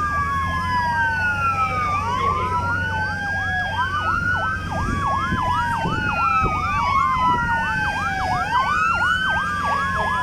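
Several emergency vehicle sirens sounding together: slow rising-and-falling wails repeating about every two seconds, joined about two seconds in by a fast yelp of quick repeated sweeps, over a steady low hum.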